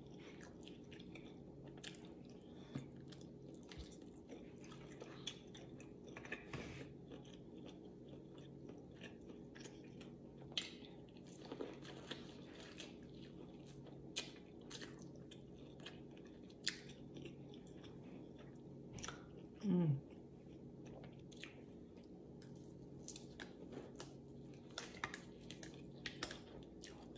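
Close-mic'd chewing and biting of deep-fried battered corn on the cob, with crunchy bites crackling at scattered moments, over a faint steady hum. A short hummed vocal sound about twenty seconds in.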